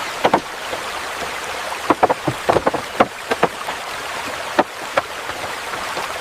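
Steady watery hiss with scattered sharp drops or ticks, like rain or running water.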